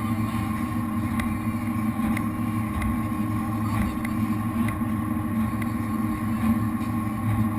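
Jet boat's V8 engines running at low, slow-cruise speed: a steady drone with faint ticks about once a second.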